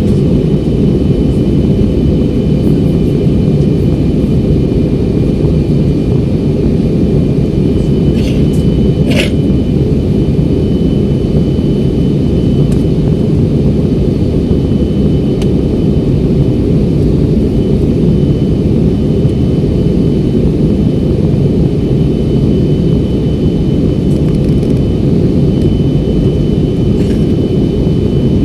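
Steady roar of jet airliner cabin noise from the engines and airflow during descent, with faint high steady whine tones over it. A short sharp click-like sound about nine seconds in.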